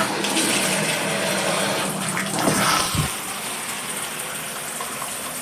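Water spraying from a newly installed shower head, coming on suddenly and then running steadily. A short low thump about three seconds in.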